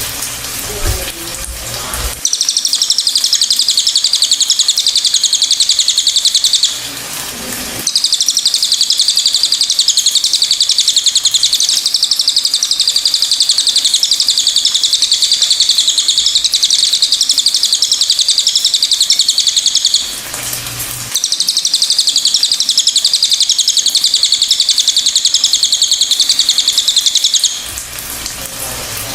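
A cililin bird singing a fast, high, chattering song of rapidly repeated notes, in three long bouts broken by short pauses.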